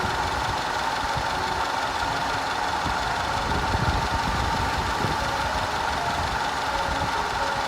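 Audi 2.0 TFSI turbocharged four-cylinder petrol engine idling steadily.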